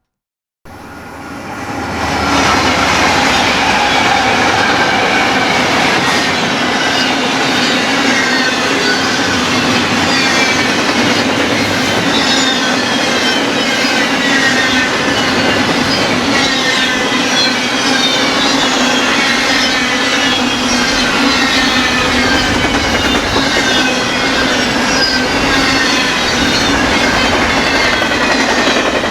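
A freight train rolling past at close range, its wheels clattering over the rail with many repeated high squeals that fall in pitch. It comes in suddenly about half a second in and stays loud and steady.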